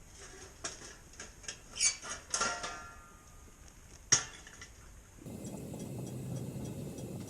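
A run of light clatters and clicks from small objects being handled, likely cookware or utensils, then one sharp click about four seconds in, followed by a steady low background noise.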